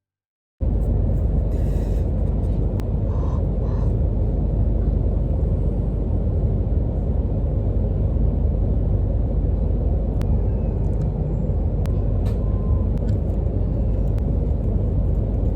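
Steady low rumble of a moving train, heard from inside the carriage, with a few faint clicks and rattles. It begins abruptly about half a second in, after a moment of dead silence.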